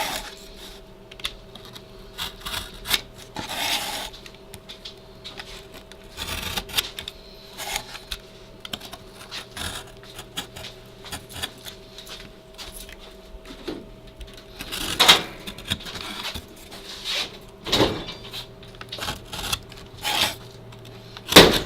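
A piece of sheetrock being cut by hand to size for a patch: irregular scraping and clicking strokes, with a few louder knocks about two-thirds of the way through and at the very end, over a faint steady hum.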